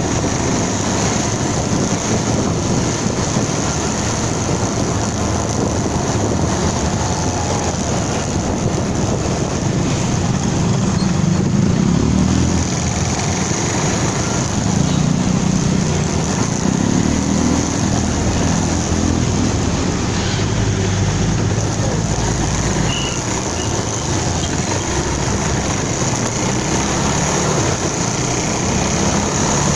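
Motorcycle engine running while riding, under a steady rush of wind and road noise on the microphone, with the low engine sound swelling and easing every few seconds.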